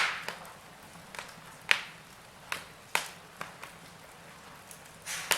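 Wood fire crackling in a fireplace: sharp, irregular pops and snaps, one or two a second, over a faint steady hiss. The loudest pops come right at the start and near the end.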